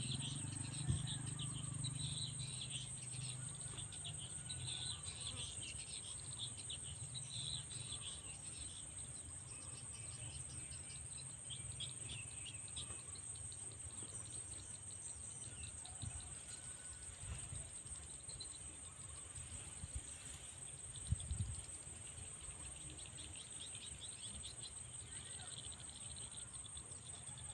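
Steady, high insect trill running throughout, with scattered short high chirps that thin out about halfway through.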